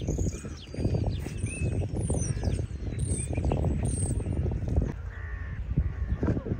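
Birds calling at a pond, with harsh cawing calls among higher chirps, over heavy low rumbling and crackling noise.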